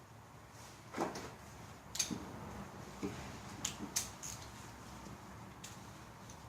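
Scattered knocks and clinks of tools and metal parts being handled during engine work, about five in all, the loudest a dull knock about a second in and a sharp click about two seconds in.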